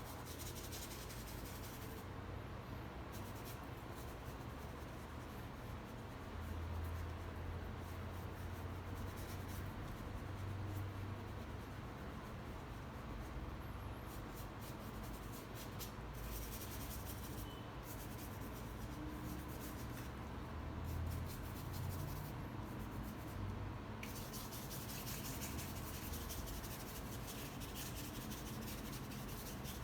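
Paintbrush stroking paint across the painting surface: a continuous soft rubbing.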